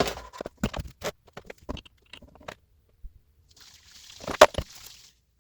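Hand tools and small metal parts handled on a workbench: a run of light clicks and taps, then a brief rustle with one sharp knock in it near the end.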